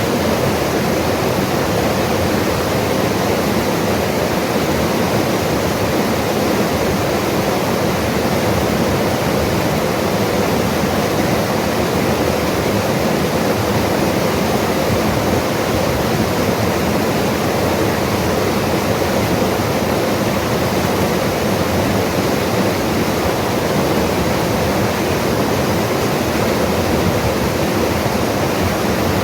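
Mountain river rushing over rocks in a loud, steady roar of water.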